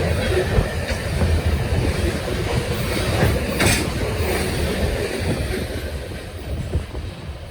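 A train passing at close range: a steady low rumble of wheels and rolling stock, with a brief sharper, higher noise about three and a half seconds in. The rumble fades over the last second or two as the train moves off.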